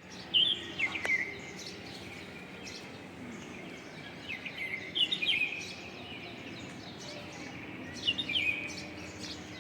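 Sparrows chirping in three short bouts of quick chirps over steady background noise, with a sharp click about a second in.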